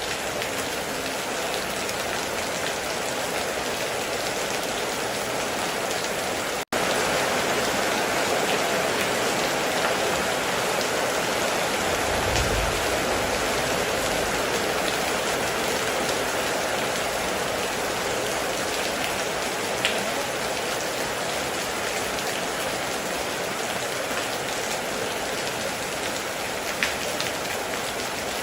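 Heavy rain falling steadily in a dense hiss. It cuts out for an instant about a quarter of the way through and comes back a little louder. A short low rumble comes near the middle, and a few sharp drop ticks come later.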